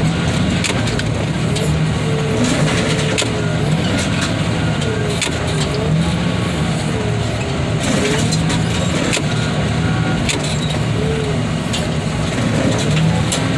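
Heavy diesel equipment running steadily, its hydraulic whine rising and falling over and over as the machine works. Scattered sharp metal clanks throughout.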